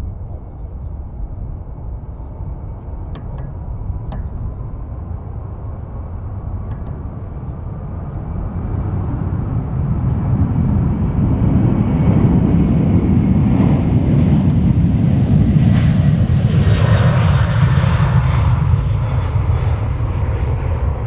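Large jet airliner's engines: a low rumble that builds over several seconds into a loud, close pass, with a faint high whine in the first half.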